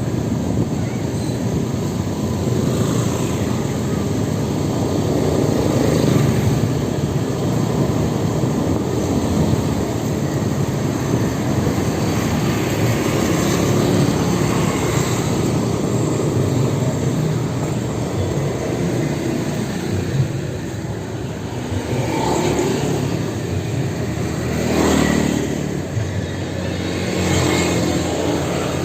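Steady road and wind noise from riding an electric motorbike, with no engine note; a few faint rising whines come in near the end.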